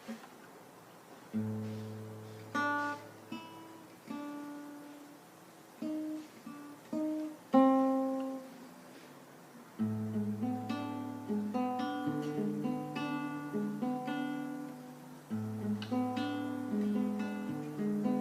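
Acoustic guitar playing an instrumental introduction: slow, separate plucked notes over ringing bass notes at first, then a steady picked accompaniment pattern from about ten seconds in.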